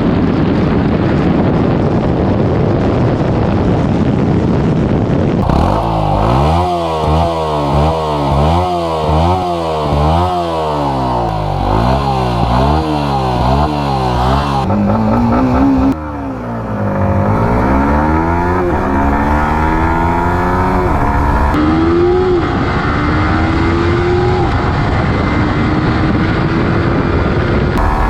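Yamaha 155 cc single-cylinder motorcycle engine. A steady rushing noise comes first. About five seconds in, the engine is revved in quick repeated blips. It then accelerates hard through the gears, its pitch climbing and dropping back at each of three upshifts, and settles to a steady high-speed note near the end.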